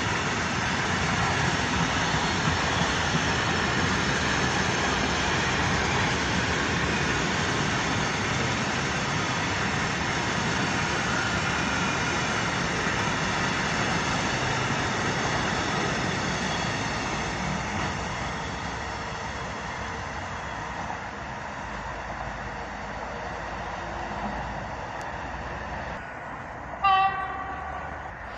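A long container freight train on flat wagons rolling past, a steady rattle and rumble of wheels on rails that fades over the second half as the last wagons go by. Near the end a train horn sounds one short, loud blast.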